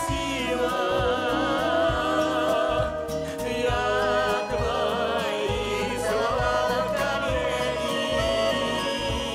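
Folk ensemble performing a sentimental song: singing with a wavering vibrato over instrumental accompaniment with a steady bass beat.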